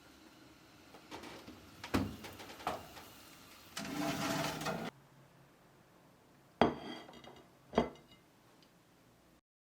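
Kitchen dishes and utensils being handled: light knocks and clinks, a noisy stretch of about a second a little before the middle, then two sharp clinks with a short ring near the end.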